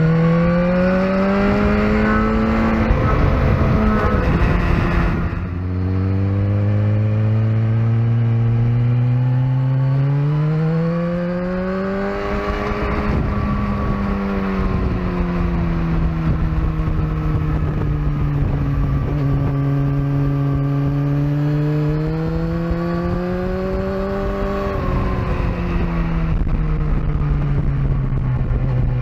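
Sport motorcycle engine running hard on a racetrack, its pitch climbing and falling through several runs of acceleration and slowing, with a sudden drop in pitch about five seconds in. A steady rushing noise runs underneath.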